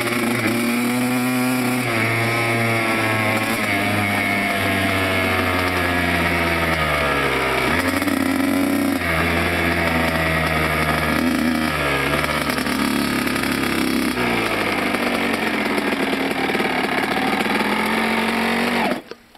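Motocross bike engine at high revs under load. Its pitch climbs and then drops several times as it shifts through the gears. The sound cuts off abruptly near the end.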